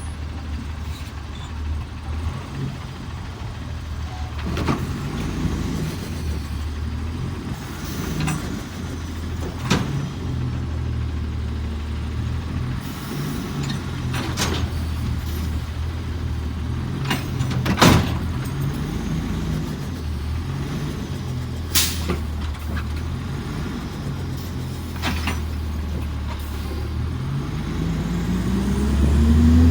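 Autocar ACX garbage truck's diesel engine running, its pitch stepping up and down as the McNeilus Autoreach automated arm works, with sharp knocks and clunks every few seconds. Near the end the engine revs up.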